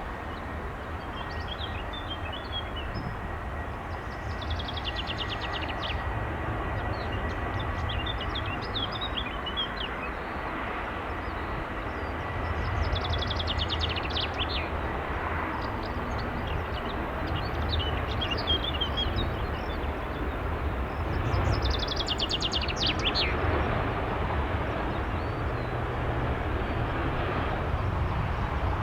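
Jet airliner engines running at a distance, a steady rumble with a faint high whine in the first third, growing a little louder about halfway through. Birds chirp several times over it.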